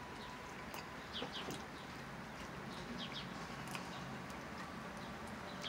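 Faint birds chirping: a few short, scattered high chirps over a steady outdoor background hiss.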